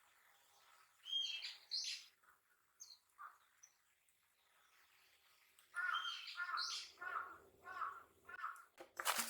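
Wild birds calling: a few short calls about a second in, then a run of about six repeated calls in quick succession, roughly two a second, later on.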